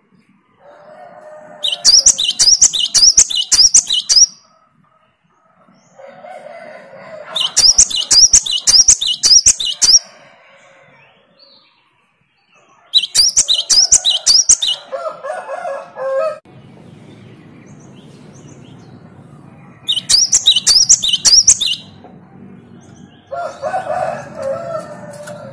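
Gelatik batu (a great-tit-type tit, Parus major) singing in four bouts of rapid, repeated high notes, each bout lasting about two seconds. Softer, lower chattering notes come between the bouts. A steady low hum joins about two-thirds of the way through.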